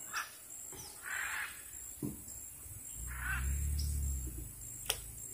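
Two short, harsh bird calls about two seconds apart, with a low rumble under the second.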